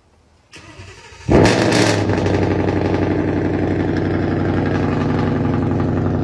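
A car engine starts with a sudden loud burst about a second in, then settles into a steady idle.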